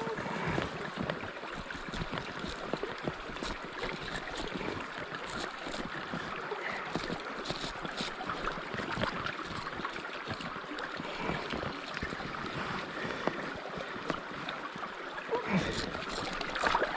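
River water running steadily, an even rushing hiss with a few faint ticks through it.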